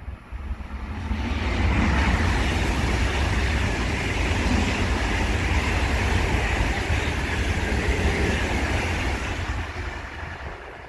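A train passing by, its rumble and wheel-on-rail noise building about a second in, holding steady for several seconds, then fading near the end.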